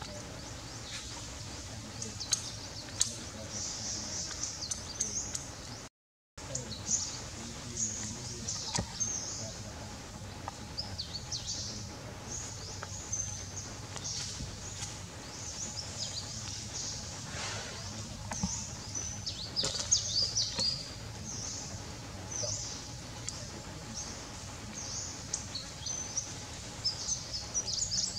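Wild birds chirping, many short high calls one after another and overlapping, over a steady background hum of the outdoors. The sound cuts out completely for a moment about six seconds in.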